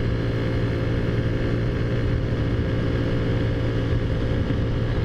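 Taotao Zummer's 50cc four-stroke scooter engine, fitted with a big-bore kit and aftermarket exhaust, running at a steady cruising speed and holding an even pitch.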